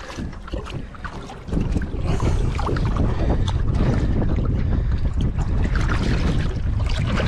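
Wind buffeting the microphone on a small boat, a low rumbling roar that picks up sharply about a second and a half in and stays strong, with scattered small knocks.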